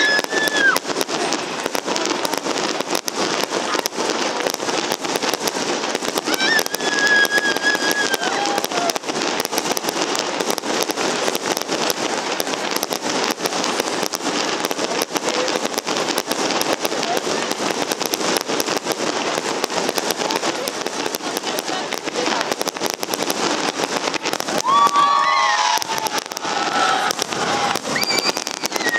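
Fireworks display: a dense, unbroken crackle of rapid pops and bangs from bursting shells and fountains. Onlookers' voices call out briefly now and then, most clearly about a quarter of the way in and again near the end.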